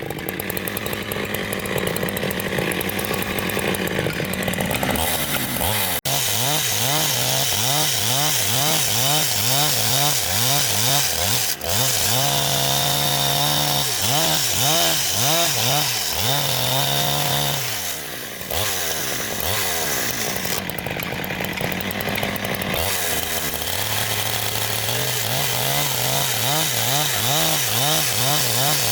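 Two-stroke chainsaw-type engine running under load as it cuts into wood, its pitch rising and falling again and again. There are brief drops in the sound about six and twelve seconds in, and a short lull around eighteen seconds.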